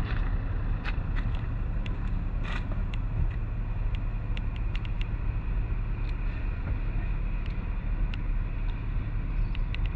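Steady low rumble of a car driving, with scattered light clicks.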